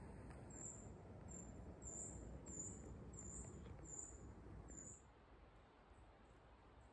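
A small bird calling faintly: a series of about seven thin, very high notes, roughly one every two-thirds of a second, over a low outdoor hiss.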